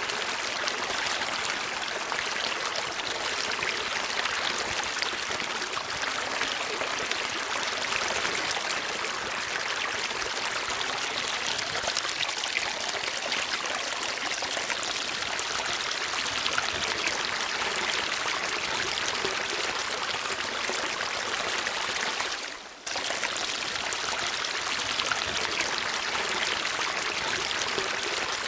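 Steady flowing water, like a stream running over stones. About 22 seconds in it briefly fades and then cuts back in suddenly.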